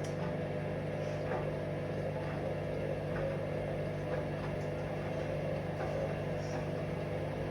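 Hoover Vision Dynamic washing machine's motor running steadily as the drum turns slowly, with faint light knocks about once a second. The machine is trying to balance an unbalanced load before it can spin up.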